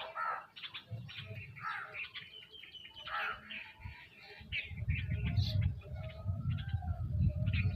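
Sparrows and mynas chirping and calling in short, overlapping notes, with a pulsing low rumble from about halfway in.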